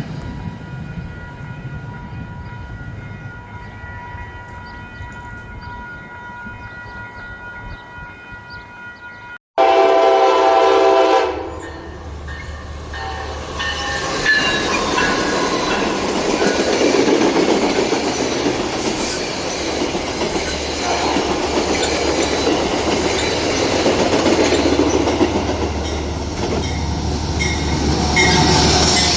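A train's horn sounds one short blast about ten seconds in. Then a train passes close by, with a steady rumble and the clatter of wheels on rail joints.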